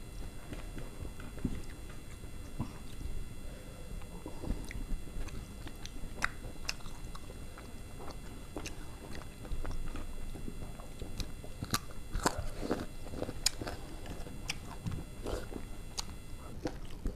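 Two people chewing and biting as they eat rice and egg curry with their hands, with scattered short clicks throughout.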